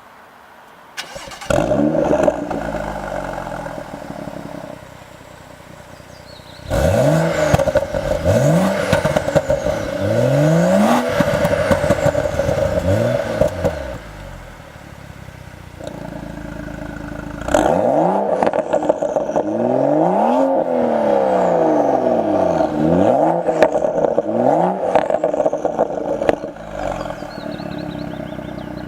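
BMW M135i's turbocharged straight-six, breathing through an aftermarket active rear silencer, starts up about a second in and is then blipped repeatedly at a standstill. Its pitch rises and falls in quick revs, grouped into several bursts with idle between, and sharp pops and crackles come on the overrun.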